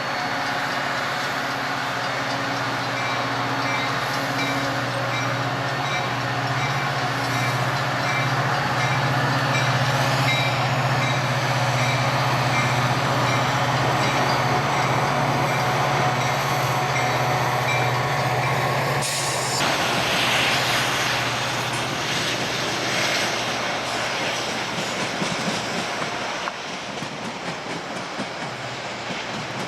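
Metra commuter train running close by: a steady low hum with a faint higher tone over rushing noise. The hum cuts off suddenly about two-thirds of the way through, leaving a rushing noise that eases near the end.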